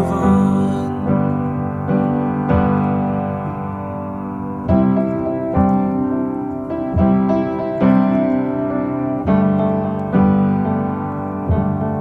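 Piano playing chords, struck afresh about once a second: an instrumental passage of a song with no singing.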